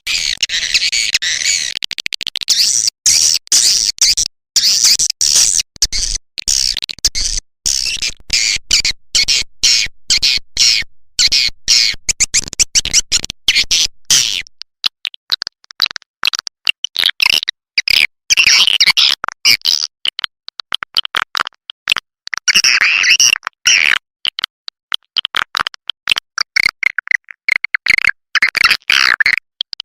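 Swiftlet lure recording: edible-nest swiftlets twittering in a dense, rapid chatter of high chirps. The chatter is choppy, broken by many very short gaps, and thins out for a few seconds about halfway through.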